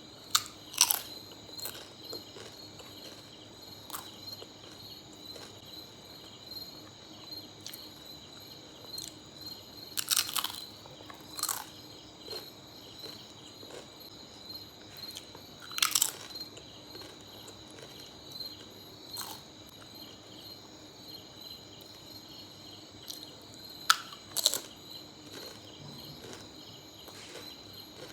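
Close-miked eating of spaghetti: scattered sharp, wet mouth clicks and smacks while chewing, a handful of them loud. Behind them, crickets chirr steadily.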